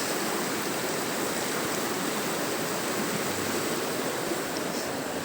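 Steady rushing of a fast mountain river running over rocks.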